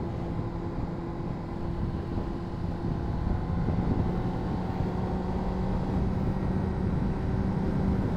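Honda CBR600RR's inline-four engine running at a steady speed, heard from the rider's position, with a little road and wind noise.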